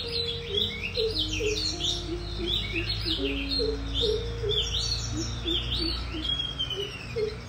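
Forest birds chirping: a busy, continuous run of short rising chirps, several a second, over faint low held tones.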